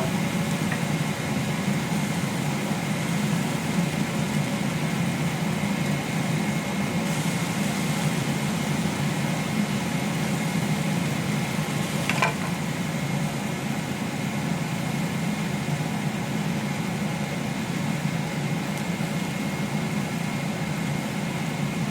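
A steady mechanical hum with a faint high whine, broken once by a short click about twelve seconds in.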